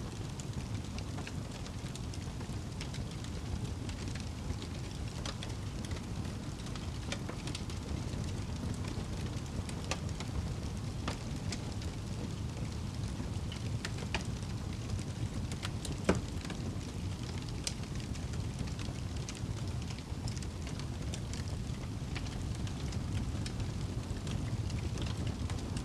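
Campfire crackling with scattered pops, one sharper, louder pop about sixteen seconds in, over a steady low rumble.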